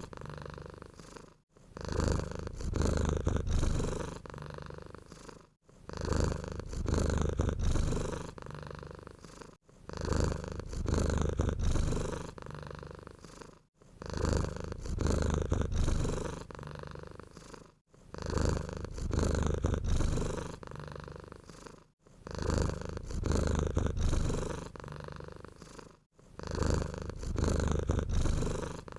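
Domestic cat purring close up, in an even rhythm that swells and fades about every four seconds, with a brief silent gap between cycles.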